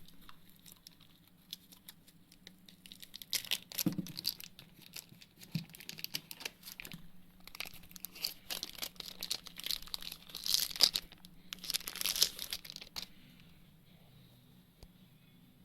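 Phone packaging being unwrapped: plastic film and wrapping crinkling and tearing, with small clicks and knocks of the box and case, busiest in the middle and stopping a couple of seconds before the end.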